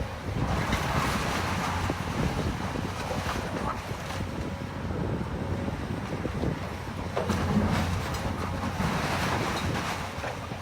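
Heavy demolition machine's engine running steadily, with scattered knocks and crunches of debris from the building being torn down, and wind buffeting the microphone.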